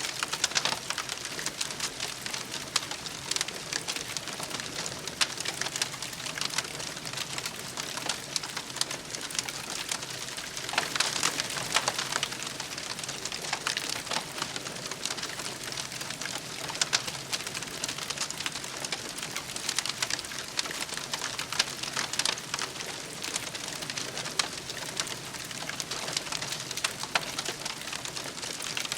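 Campfire burning with a steady, irregular crackle of small pops and snaps from the burning wood.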